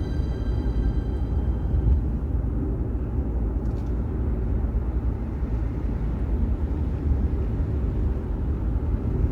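Steady low road rumble of a car driving, the tyre and engine noise heard from inside the moving vehicle. The last held notes of background music fade out in the first two seconds.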